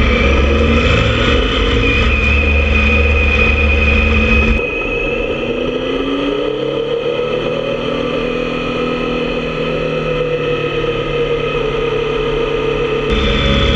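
Motorcycle engine running while riding, with a steady deep hum. About four and a half seconds in the sound drops abruptly to a quieter run, where the engine pitch rises and falls, and near the end it jumps back up in loudness.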